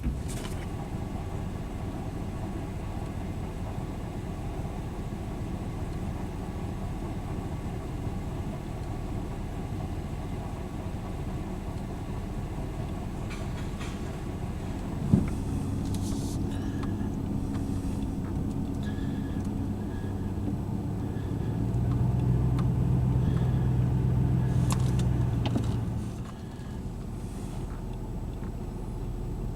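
A vehicle driving on the road, heard from inside the cabin: a steady low rumble of road noise and engine. The engine note strengthens and grows louder for a few seconds near the end, then eases off. There is a single sharp click about halfway through.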